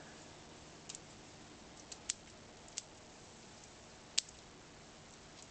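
Pruning scissors snipping through the thin shoots of a Brazilian rain tree bonsai: a few sharp, irregularly spaced snips, two of them close together about two seconds in, and the loudest about four seconds in.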